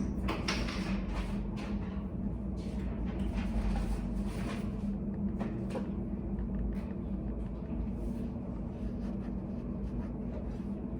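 Steady low hum of a study café's room tone, with short scratchy rustles over roughly the first six seconds that thin out after.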